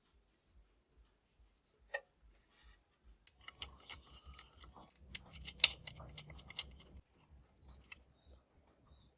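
Sharp clicks and light clatter of small plastic and metal parts being handled and worked on, from a Sony CFS-W350S radio cassette recorder under restoration. There is a single click about two seconds in, then a busy run of clicks through the middle, the loudest a little past halfway.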